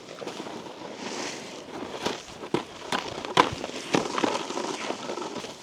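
Snowboard sliding and scraping over icy, slushy snow, with a run of sharp clacks and knocks in the second half.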